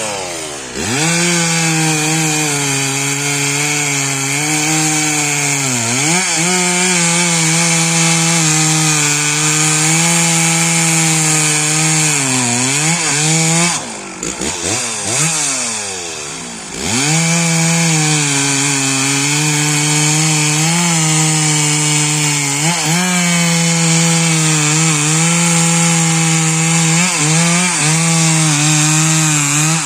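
Stihl 064 single-cylinder two-stroke chainsaw running at high revs through wood, its pitch dipping briefly under load a couple of times. About halfway through it is let off the throttle for roughly three seconds, then revved back up and held high again.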